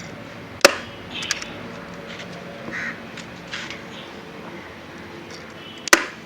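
Two sharp knocks about five seconds apart, with lighter clicks and taps between them.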